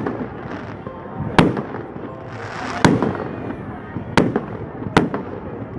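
Fireworks exploding: four sharp bangs about a second apart, over a steady background hiss.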